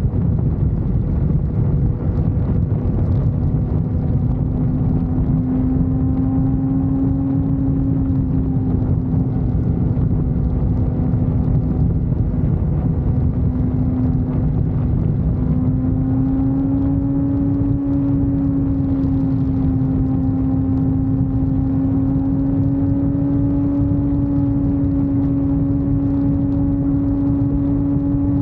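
Motorcycle engine running at a steady cruising speed under a constant low rumble, its pitch rising slightly about halfway through and then holding.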